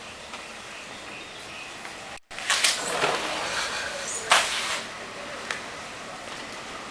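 Outdoor ambience with birds chirping, broken by two loud rushing noise bursts about two and a half and four seconds in. The sound drops out for an instant just after two seconds.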